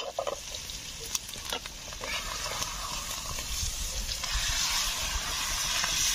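Masala-coated fish roe frying in hot oil in a black iron kadhai: a steady sizzle, with a few sharp clicks in the first two seconds.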